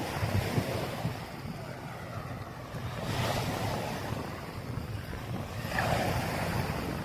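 Surf washing onto the beach with wind buffeting the microphone; the wash swells twice, about three seconds in and again near six seconds.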